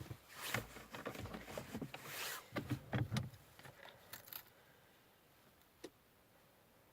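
Car keys jangling and clicking as they are handled at the ignition for about four seconds, then a quiet pause broken by one sharp click.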